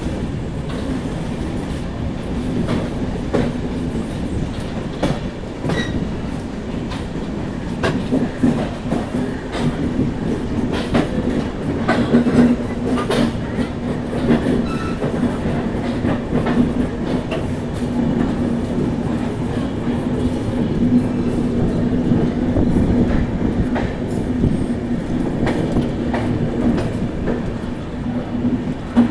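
Passenger train running on the rails: a steady rumble and hum with irregular clicks and knocks from the wheels over the track.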